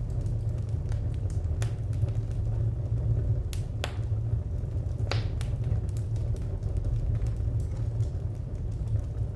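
Wood fire crackling: scattered sharp pops and snaps from the burning firewood, the loudest about five seconds in, over a steady low rumble.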